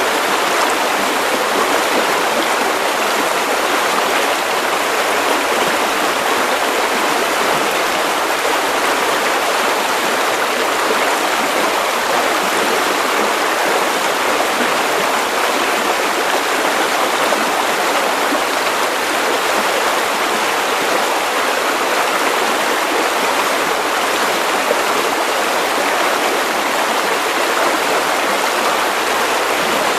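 Steady white noise: an even hiss with little bass and no change in level.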